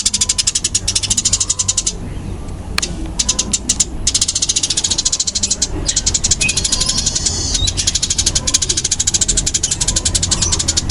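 Eurasian tree sparrows giving fast, dense fighting chatter: a loud, rapid train of high chirps at about ten a second, with a short pause about two seconds in and a brief break near the middle.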